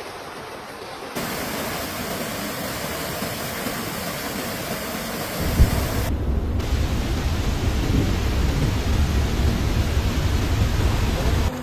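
Steady rushing noise of floodwater and heavy rain, changing abruptly about a second in and again near six seconds, with a deep low rumble added from about five and a half seconds on.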